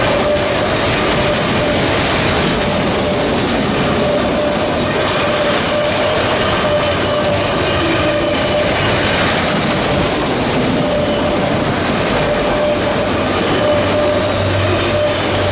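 BNSF freight train rolling past, its wheels clicking over the rails under a steady rumble, with a thin steady ringing tone running through it.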